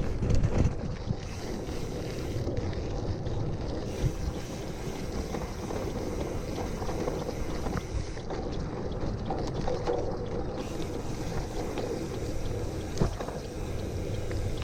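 Gravel bike tyres rolling over a loose gravel road, a steady rolling noise with wind on the microphone and a sharp knock near the end.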